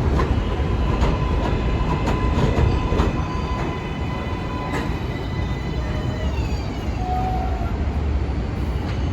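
New York City subway train running past on the tracks: a steady rumble of wheels on rail with scattered clicks, and a motor whine of several tones that drops in pitch about six seconds in.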